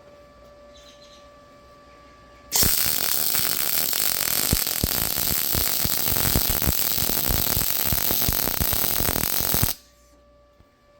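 MIG welding arc from an Arccaptain MIG200 set to about 21 volts and 130 amps with 0.9 mm wire, running a bead on 3/16-inch mild steel: a loud steady crackling hiss that starts abruptly about two and a half seconds in and cuts off about seven seconds later. A faint steady hum before and after.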